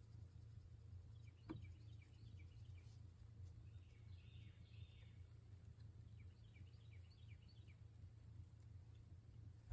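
Near silence: faint lakeside ambience with a steady low hum, a single soft click about one and a half seconds in, and faint scattered bird chirps.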